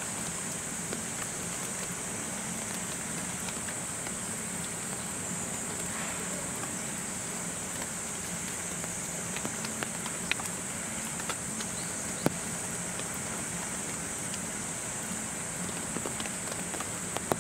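Steady outdoor rain ambience, a soft even patter, with a constant high-pitched insect drone over it and a couple of sharp clicks about ten and twelve seconds in.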